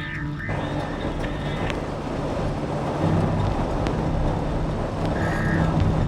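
A steady rushing, rumbling noise with a low hum, under soft background music.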